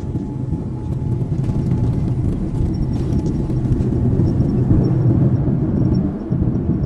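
Airliner cabin noise: the steady low rumble of jet engines and rushing air. It swells slightly after the first second and dips briefly near the end.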